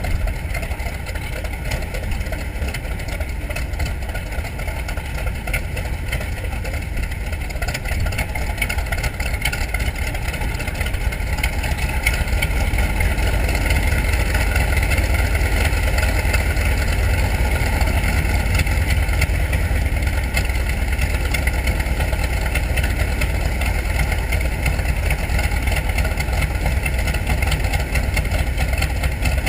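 The Grumman TBM Avenger's Wright R-2600 fourteen-cylinder twin-row radial engine running steadily. It grows louder about ten to twelve seconds in, as if the power is advanced, and then holds.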